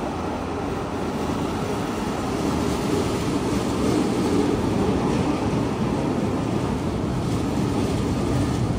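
Hong Kong Peak Tram funicular car running on its rails, a steady rumble that swells a little about three seconds in.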